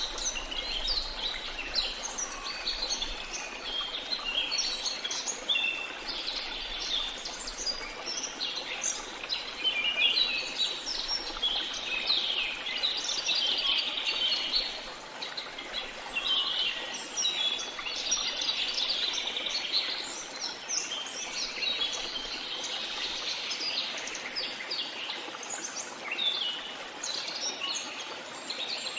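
A chorus of many songbirds chirping and singing, with short, overlapping calls and trills that run on without a break, over a soft, steady background hiss.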